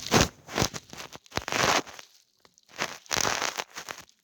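Plastic packaging crinkling and crackling in irregular handfuls as it is handled and opened.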